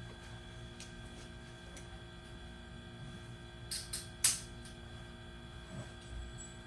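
Two light clicks and then one sharp knock over a steady background hum, typical of handling hardware during garage door installation work.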